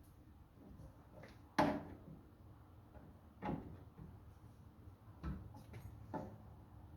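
Four separate sharp knocks and clanks from hand tools and parts being handled during tractor repair work. The loudest comes about one and a half seconds in, and the rest follow at intervals of one to two seconds.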